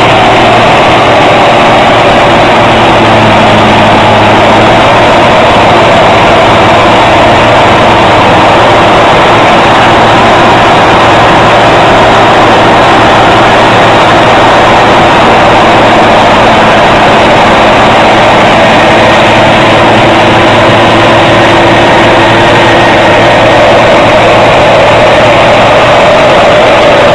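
A heavy engine running steadily and loudly, with no change in pace.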